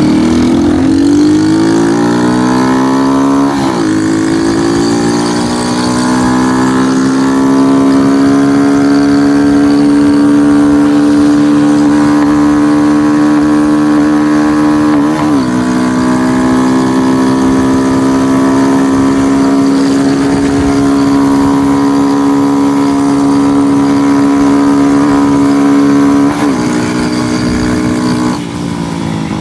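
Bored-out 222 cc single-cylinder Honda motorcycle engine pulling hard under way, the note climbing and then holding high. Brief dips in pitch at three gear changes. It falls quieter near the end.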